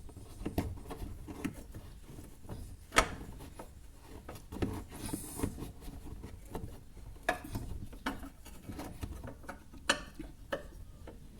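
Scattered metal clicks, taps and scrapes of a wrench working a bolt as the stabilizer bar bushing bracket is tightened, with a sharper click about three seconds in and again near the end.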